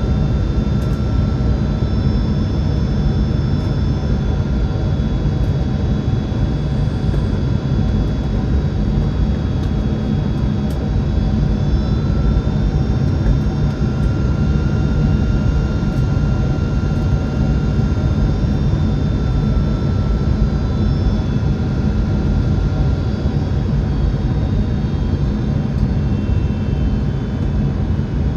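Steady jet engine and airflow noise inside a Boeing 767-400 airliner cabin: a constant low rumble with faint steady whining tones above it, one of which steps slightly higher about twelve seconds in.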